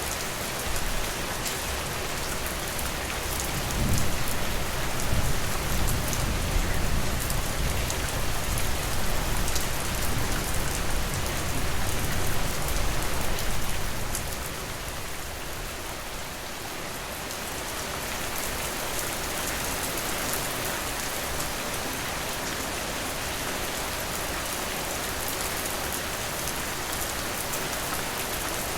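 Steady rain falling, with fine drop ticks throughout. A low rumble swells about four seconds in and dies away about ten seconds later.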